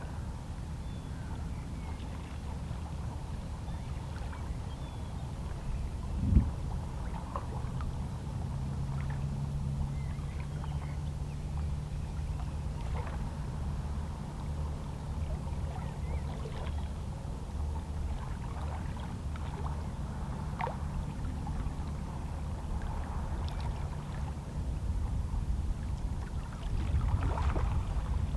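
Small, lazy sea waves lapping and splashing against shoreline rocks, with scattered little splashes and a steady low rumble of water. A single sharp knock or slap about six seconds in is the loudest moment, and a low steady hum runs through the middle.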